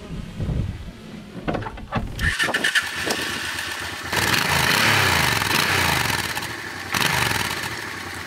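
Motorcycle engine starting about two seconds in, after a few clicks, then running and revving with its pitch rising and falling. It is loudest from about four to seven seconds in.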